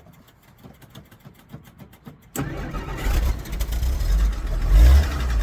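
1963 Jeep Gladiator: a faint, rapid, even ticking, which the owner takes for an electric fuel pump, then a little over two seconds in the engine cranks, catches and runs, revving up briefly near the end.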